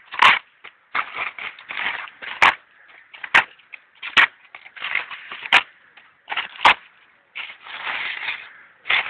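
Dry twigs and leaves crunching and rustling in irregular bursts, with sharp snaps about once a second, as of kindling being broken by hand.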